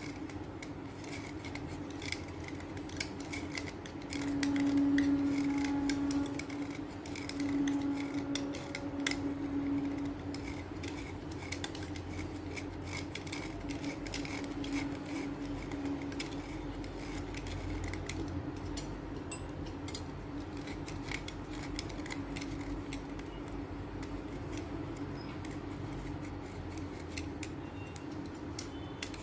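Chalk being cut and scraped into powder: a steady run of fine scratching and crumbling ticks. A low hum swells louder twice in the first third.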